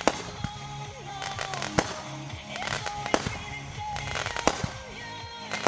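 Consumer fireworks going off in about half a dozen sharp bangs spaced roughly a second apart, over background music.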